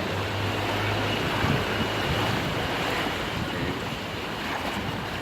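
Wind rushing over the microphone aboard a moving river tour boat, with water noise and a low steady hum that fades out about a second and a half in.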